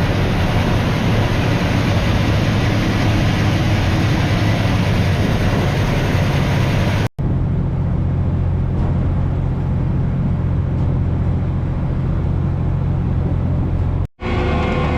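Steady low drone of a prawn trawler's engine under way, with a heavy rushing noise over it for the first half. The sound breaks off abruptly twice, at edit cuts.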